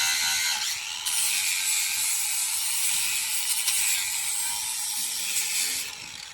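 A hand-held power tool working steel on a car frame, giving a loud, harsh, hissing whine. It dips briefly about a second in and stops near the end.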